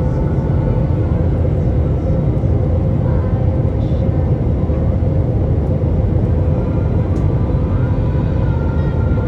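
Steady engine roar of an airliner heard from inside the passenger cabin in flight, with a constant drone running through it.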